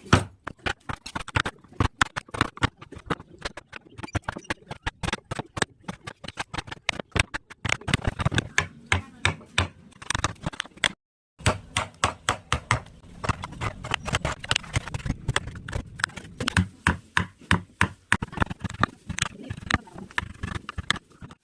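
Wood carving by hand: a chisel driven into wood with quick, sharp mallet taps, several a second, broken off by a brief gap about halfway through.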